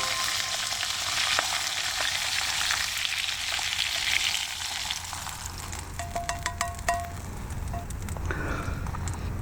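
Food sizzling as it fries in a pot over a wood fire, easing off about halfway through, then a few quick metallic clicks and clinks.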